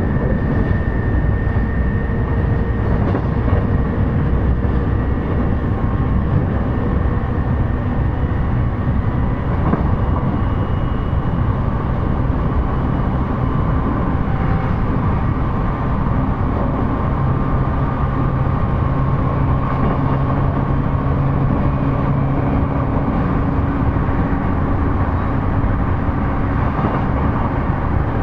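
Running noise of an E233-series electric commuter train, heard from inside the car: a steady rumble of wheels on rail, with faint motor tones that drift slowly in pitch.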